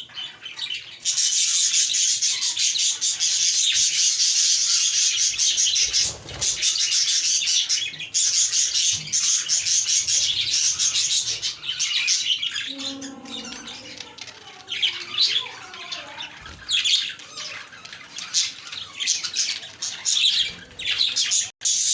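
A flock of budgerigars chattering and warbling together in a dense, continuous chorus of chirps that thins out for a few seconds in the middle and picks up again near the end.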